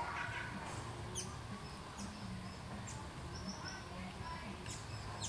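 Birds giving sparse, short, high chirps every second or so, with one brief steady high note a little past the middle, over a low steady background rumble.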